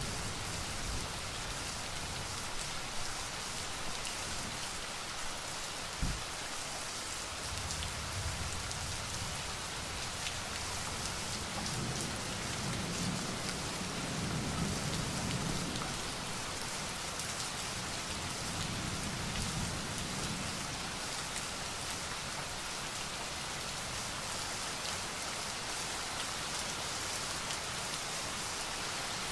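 Steady heavy rain, an even hiss of falling drops, with a low rumble of distant thunder swelling in the middle and a single low thump about six seconds in.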